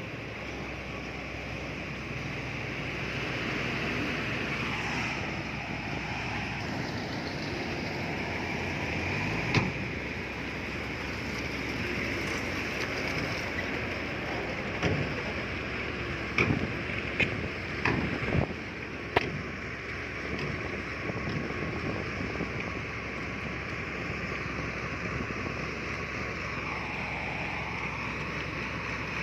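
Heavy earthmoving machinery running steadily, with a single sharp knock about a third of the way in and a quick cluster of knocks a little past the middle.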